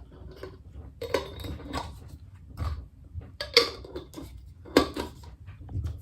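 Painting tools clinking and clattering as they are handled and set down: a run of irregular sharp knocks, the loudest about three and a half and five seconds in.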